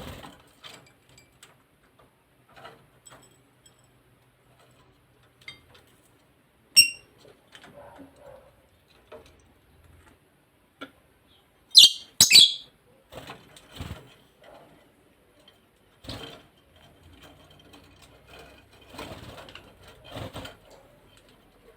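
Pacific parrotlets calling: one sharp chirp about seven seconds in, then two loud, shrill calls in quick succession around the middle, with scattered soft rustling and tapping throughout.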